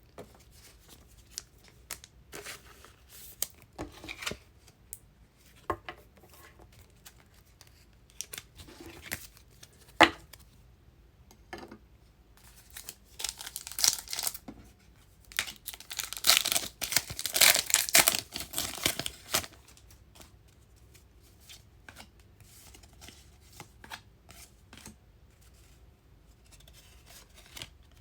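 Trading card packs being handled: scattered light clicks and flicks of cards, with a longer stretch of crinkly tearing about halfway through as a pack wrapper is ripped open.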